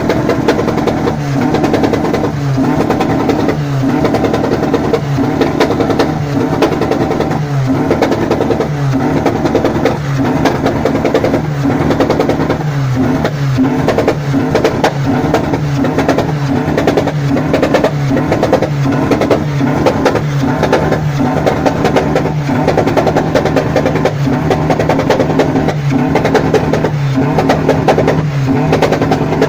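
Tuned Peugeot 106 GTi 16-valve engine with forged pistons and Kent cams, revving hard through its exhaust. It is held at steady high revs that dip briefly and recover at a very even pace, about one and a half times a second.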